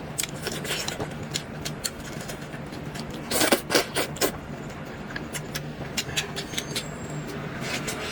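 Close-up eating sounds: wet mouth clicks and smacks while chewing sweet potato vermicelli noodles, with a louder cluster of smacks about three and a half seconds in, over a faint steady hum.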